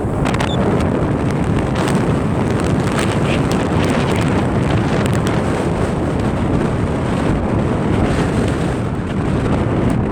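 Strong wind of about 20 knots buffeting the microphone: loud, steady low rumbling noise with brief gusty crackles. Surf from the beach may lie underneath.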